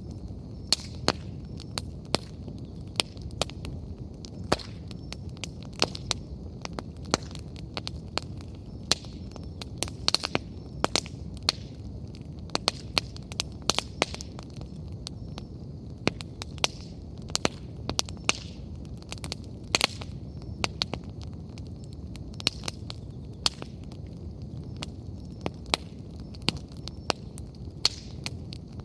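Wood bonfire crackling: frequent irregular sharp pops and snaps from the burning firewood over a low, steady rumble of flame.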